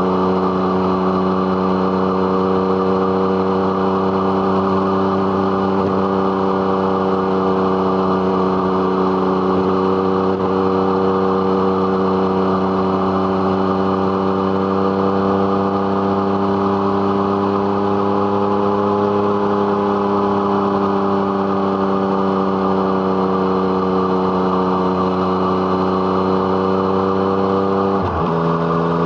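A Yamaha MT-09's three-cylinder engine running through an Arrow Thunder aftermarket exhaust at steady road revs. The revs rise and ease off gently midway through. Near the end the pitch drops suddenly and settles lower, as it does on an upshift.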